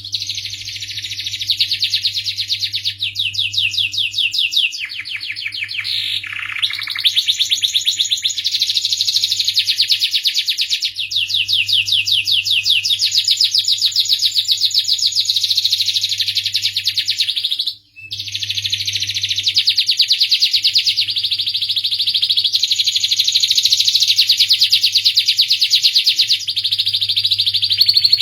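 Domestic canary singing a long, continuous song of fast rolling trills and rapid repeated notes, with a brief break a little past the middle. A faint steady low hum runs beneath.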